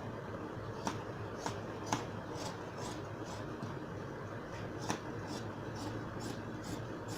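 Scissors cutting through fabric, a regular run of short snips about twice a second, over a steady low hum.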